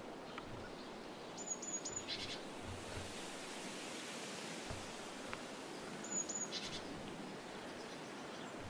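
Steady outdoor hiss with faint bird calls: two short groups of three high, thin chirps, about a second and a half in and again about six seconds in.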